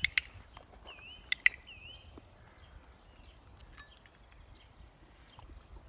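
A small bird singing in short repeated chirps that dip and rise in pitch. Two pairs of sharp clicks, louder than the birdsong, come right at the start and again about a second and a half in.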